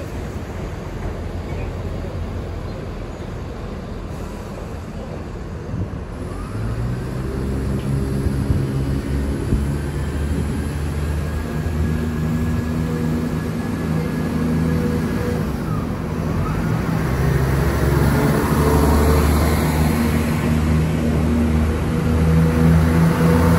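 A train's engine running: a low hum of several steady tones comes in about a quarter of the way through and grows louder, with a fainter high tone in the middle.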